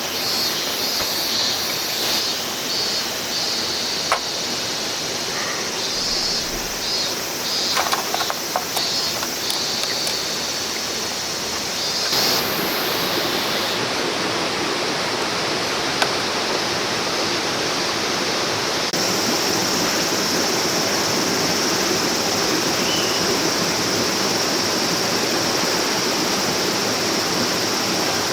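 A clear river flowing, a steady rush of water.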